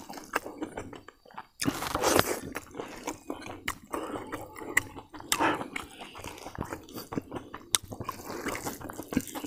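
Close-up chewing with wet mouth smacks, and fingers squishing rice and mutton gravy together on a banana leaf: many short clicks and squelches.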